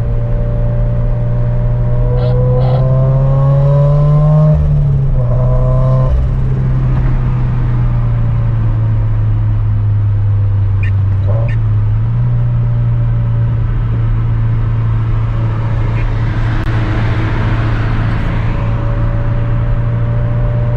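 Turbocharged flat-four of a Toyota 86-platform coupe, heard from inside the cabin during a light cruise: a steady engine drone whose pitch climbs over the first few seconds, then drops suddenly about four and a half seconds in as the driver shifts, and steps up again around twelve seconds in.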